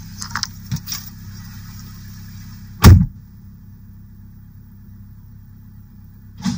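Car engine idling steadily, with one loud thump about three seconds in and a softer knock near the end.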